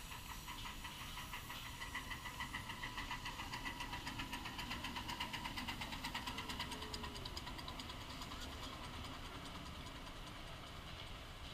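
Miniature ride-on train running past on the track, a quick, even clatter of about five beats a second that grows louder toward the middle and fades away.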